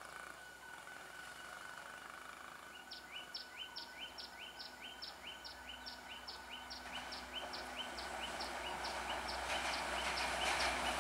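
Class S14 diesel multiple unit approaching, its running noise growing steadily louder through the second half. From about three seconds in there is a fast, evenly repeated chirping, about five short notes a second.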